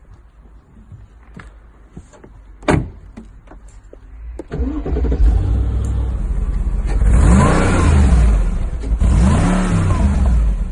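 A sharp knock, then the Mercedes-McLaren SLR Stirling Moss's supercharged V8 starting about four and a half seconds in and being revved twice, each rev rising and falling in pitch.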